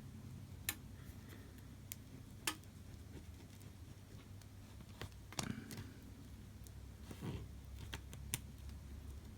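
Scattered light clicks and a couple of short scrapes from a plastic razor blade working softened adhesive off an iPhone LCD, over a faint low hum.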